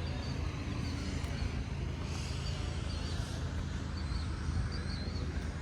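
Steady low engine rumble of a vehicle running nearby, with short high chirps repeating over it.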